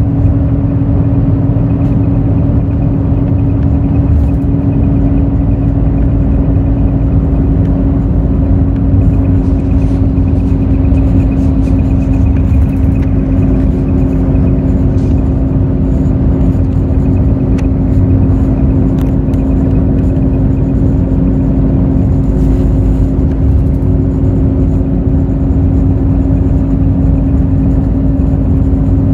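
Hino J08E-VD inline-six turbo-diesel of a Hino RN8JSVU intercity bus running at a steady engine speed, heard inside the bus: a constant low drone with a steady whine over it, and road rumble.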